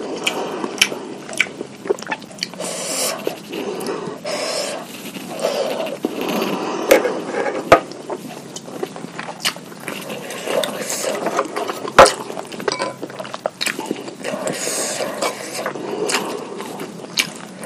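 Close-miked eating sounds: chewing and slurping of meatballs in spicy broth, with irregular sharp clicks, two of them loudest about eight and twelve seconds in.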